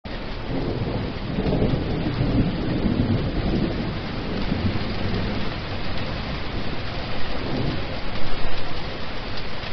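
Steady heavy rain hissing, with low rolling rumbles of thunder swelling about two seconds in and again near the end.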